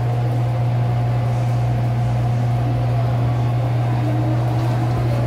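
Cabin noise inside an MTR M-train as it pulls away from the platform: a steady, strong low hum with the even running noise of the train getting under way.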